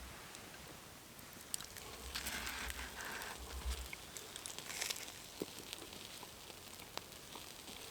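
Quiet eating and handling noises: scattered faint clicks and rustles, with a brief low rumble about two seconds in.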